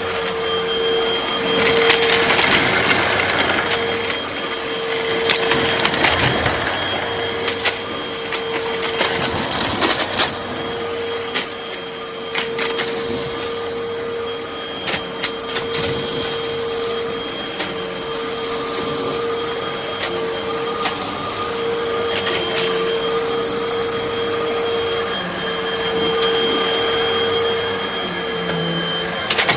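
Hoover vacuum cleaner running with a steady motor whine while sucking up dry, crunchy debris, which crackles and clicks irregularly as it rattles through the nozzle and hose.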